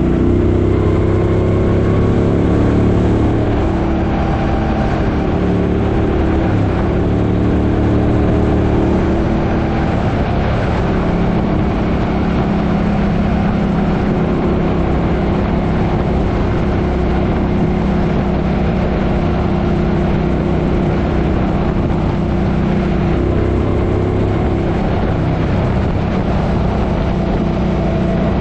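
Suzuki Boulevard M50's V-twin engine running under way, its note shifting a little in pitch with throttle, over steady wind and road noise.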